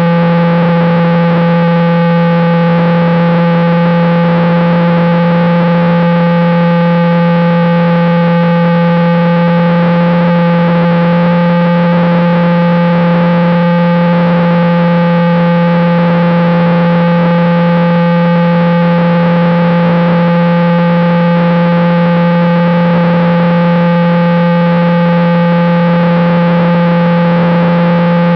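A loud, unchanging buzzing hum at one low pitch with a stack of evenly spaced overtones, holding the same pitch and level throughout.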